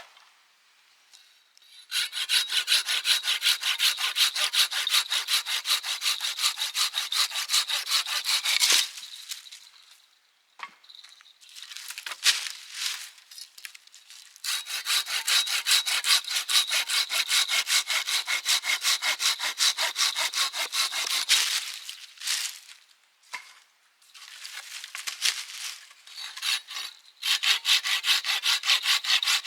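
Hand saw cutting firewood in quick, even back-and-forth strokes, in three bouts with short pauses between.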